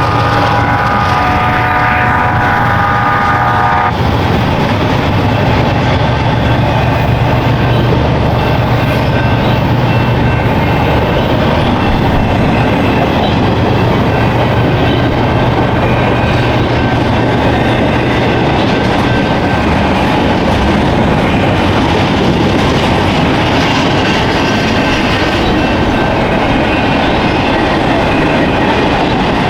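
A diesel locomotive horn blows and cuts off about four seconds in. Then the BNSF intermodal freight train's locomotives pass with a steady low engine drone, followed by a loud continuous rumble of the cars rolling by on the rails.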